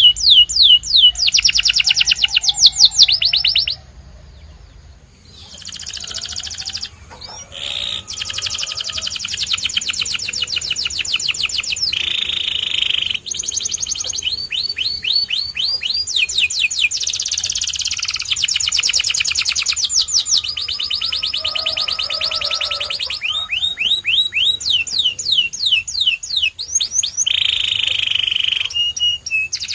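Domestic canary singing: long high-pitched trills of fast, evenly repeated notes, many of them quick downward sweeps, in phrases that change from one trill to the next. The song breaks off briefly about four seconds in, then runs on.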